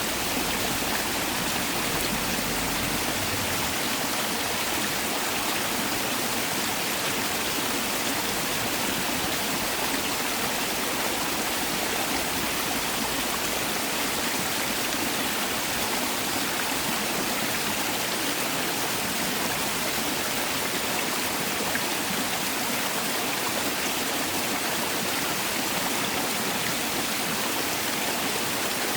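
Mountain valley stream rushing over rocks, a steady, even rush of water that does not change.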